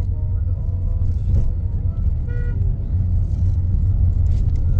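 A steady low rumble, with a faint pitched sound, perhaps a voice, briefly about halfway through.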